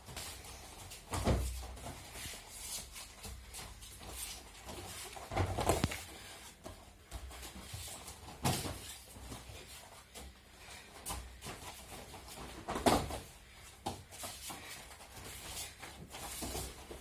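Dull thuds of aikido breakfalls on training mats, four heavy ones a few seconds apart with lighter knocks and shuffling between.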